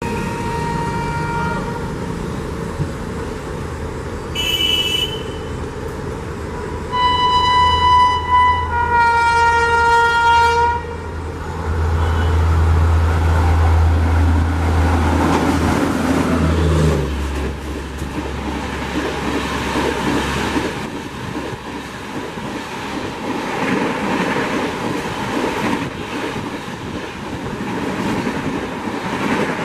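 An Indian Railways express of LHB coaches, hauled by an electric locomotive, approaches sounding its horn several times. There are short blasts, then a longer blast of about two seconds. A low hum swells as the locomotive comes through, and from about halfway on the coaches rush and clatter past at high speed.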